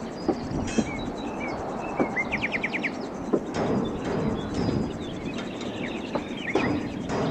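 Birds chirping and calling, with a quick run of about five rising notes around two and a half seconds in. Behind them is a steady background hiss, broken by a few sharp knocks.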